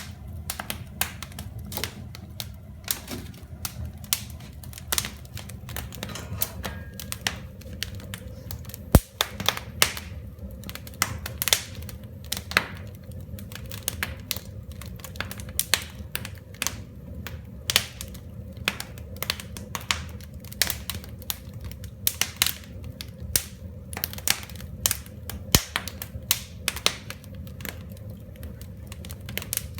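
Wood fire crackling: irregular sharp snaps and pops over a steady low rumble, with one louder pop about nine seconds in.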